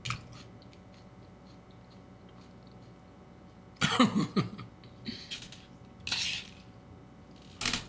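A single loud cough about halfway through, followed by a few quieter short, noisy sounds over low room tone.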